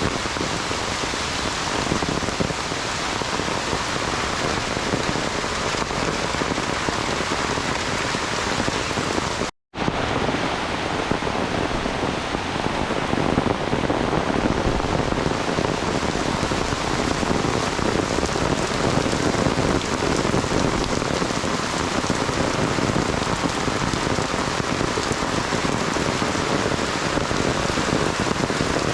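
Heavy rain falling steadily in a dense, even hiss. It cuts out for a split second about ten seconds in, then carries on.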